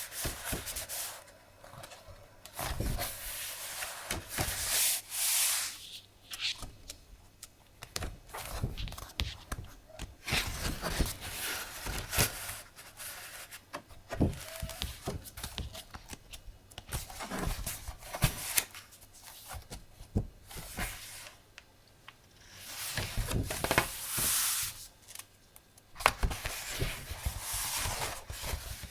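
Decorative paper being handled: irregular rustling and sliding swishes, with many light taps and clicks.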